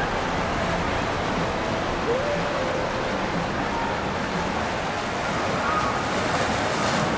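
Steady rushing noise of wind and water on a river, with faint distant voices drifting through.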